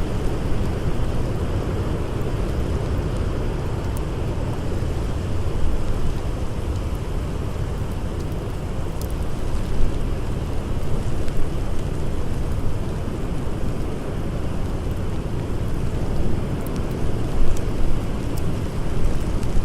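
Howling blizzard wind with a steady, deep rumble that swells a little now and then, and a few faint crackles from a campfire.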